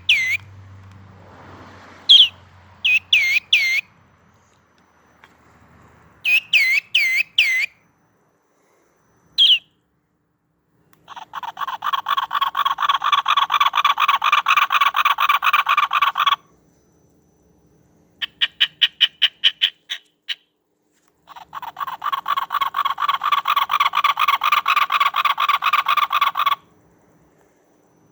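Recorded southwestern bird songs played back one after another on an Identiflyer birdsong player, with short silences between clips. First come groups of sharp sweeping chirps, then two long runs of rapid, harsh chattering notes, each about five seconds long.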